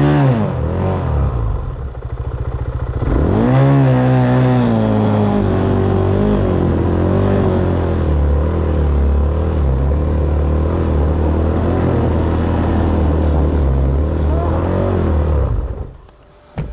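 Dirt bike engine revving up and down under load, then held at high, wavering revs for about ten seconds before it stops abruptly near the end.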